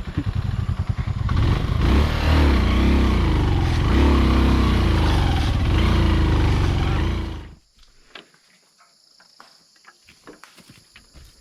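Motorcycle engine revving hard in repeated surges as the bike struggles in mud, its wheel held back by mud packed around the brake and a jammed stick. The engine cuts off suddenly about seven and a half seconds in, leaving faint ticks and clicks.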